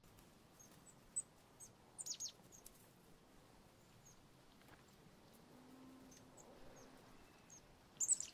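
Small birds chirping: short, high calls scattered through, with the loudest clusters about two seconds in and near the end.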